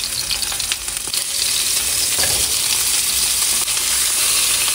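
Naem, Thai fermented pork sausage, frying in hot oil in a pan: a steady sizzle with scattered crackles.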